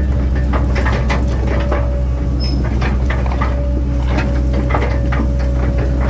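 1997 Link-Belt 2700 excavator's diesel engine running steadily, with irregular sharp clanks and knocks over it throughout.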